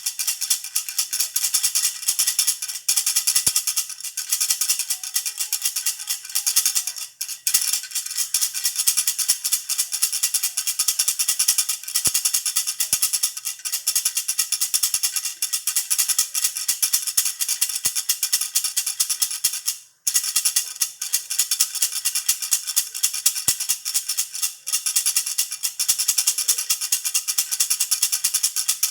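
Baby's hand rattle (jhunjhuna) shaken fast and continuously: a dense, bright rattling. It breaks off for a moment about twenty seconds in.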